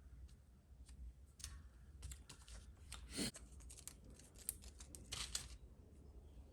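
Small sharp clicks and short scratchy rustles of hands working on model kit parts, bunched in the middle, the loudest a little after halfway, over a low steady hum.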